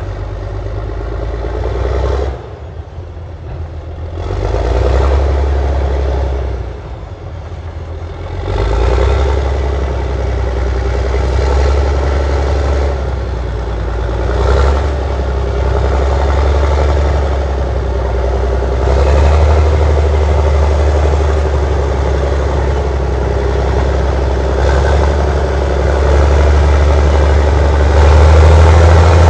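Allis-Chalmers HD-21 crawler dozer's diesel engine working. Its note drops back twice in the first eight seconds, then runs steadily and loud.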